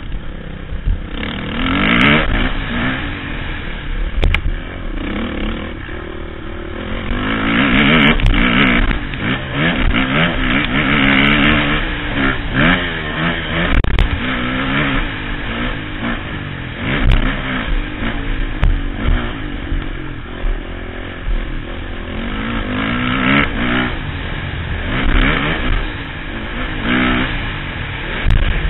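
Motocross bike engine ridden hard round a dirt track, its revs rising and falling again and again through gear changes, heard from the rider's helmet. There is a low rumble and scattered knocks and clatter from the bike.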